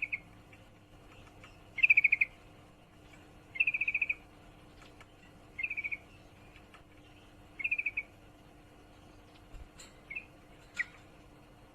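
Female yellow-vented bulbul (trucukan) giving its chattering 'ngriwik' call: short, rapid trills of quick notes, one about every two seconds, five loud ones and then a few fainter, shorter calls near the end.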